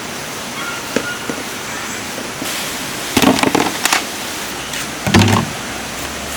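Steady rush of a forest stream, with two short, louder noises about three and five seconds in.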